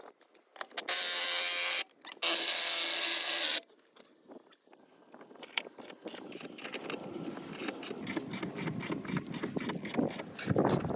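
An air-powered tool running in two bursts of about a second each, with a hum and a hiss. It drives the bead breaker being reset on a tractor tire. After that comes a long run of quick, even clicks and knocks that grow louder.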